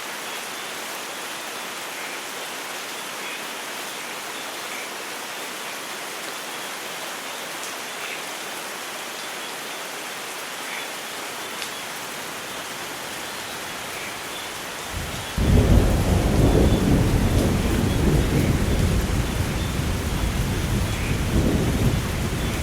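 Steady heavy rain, then about two-thirds of the way in a thunderclap breaks in suddenly and rolls on as a long, loud, low rumble over the rain.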